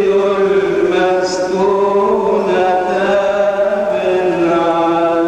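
Coptic liturgical chant: a man's voice holding a long melisma on one vowel, sliding slowly between held notes, with a steady lower note sounding beneath it.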